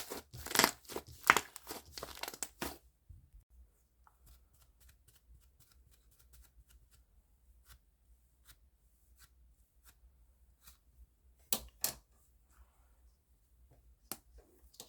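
Fluffy foam slime being pressed and stretched by hand, its air bubbles crackling and popping. There is a quick run of crisp pops over the first few seconds, then scattered faint pops, with a couple of louder ones later on.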